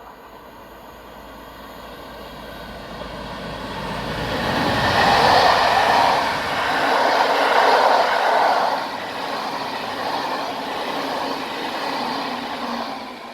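Newag Griffin (EU160) electric locomotive hauling a passenger train past on a curve. The rumble of the locomotive and its wheels on the rails builds over the first few seconds and is loudest from about five to eight seconds in. The carriages then roll by steadily.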